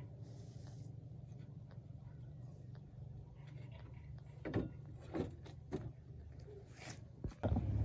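Small old gasoline engine running with a steady low hum. A few sharp clicks and knocks sound over it in the second half. Near the end it cuts out for a moment and comes back louder.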